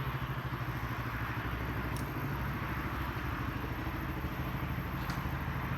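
Motorcycle engine running at steady revs, an even low drone with a couple of faint clicks.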